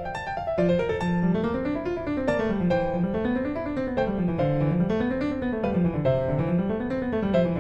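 Background piano music, with a bass line of rolling notes rising and falling in repeated waves under a higher melody.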